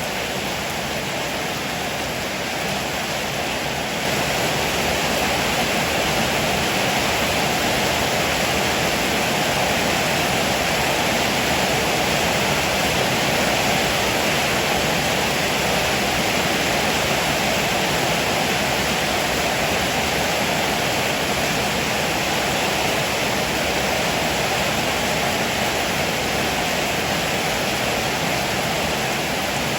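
Heavy rain pouring down as a steady, dense rush, rising slightly in level about four seconds in.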